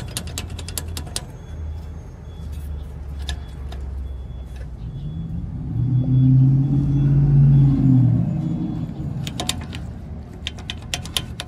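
A steady low rumble, with a vehicle engine growing loud and bending in pitch through the middle as it passes. Rapid bursts of metallic clicking come near the start and again near the end, from hand tools on the sway bar end-link hardware.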